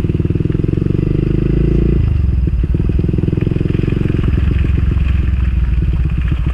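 Motorcycle engine running at low revs with a steady pulsing beat; its note drops about two seconds in.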